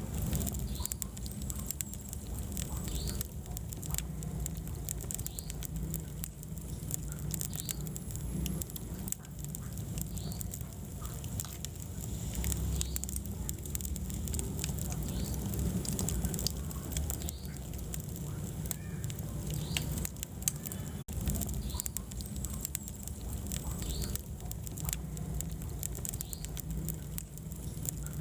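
Wood fire burning in a fireplace: frequent sharp crackles and pops from the burning logs over a low, steady rumble of the flames.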